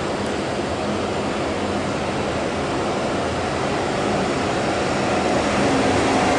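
Trenitalia Frecciabianca express train approaching at low speed, led by its E414 electric power car: a steady rushing drone with a faint low hum that grows louder near the end as the train draws closer.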